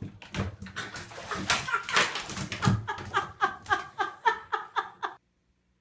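A dog giving rapid, repeated yips, about four a second, over scuffling clicks, cutting off suddenly near the end.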